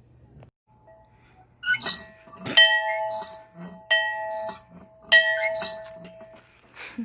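Several metallic clanks, about a second or so apart, each followed by a ringing, bell-like tone that dies away.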